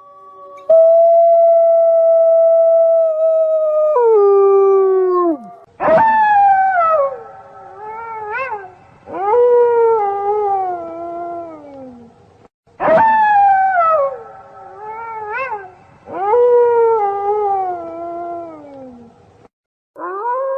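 A pack of wolves howling in chorus, several voices overlapping at different pitches. Long held howls slide down in pitch at their ends, with short rising yelps between them. The howls break in abruptly every few seconds, with a brief silence near the end.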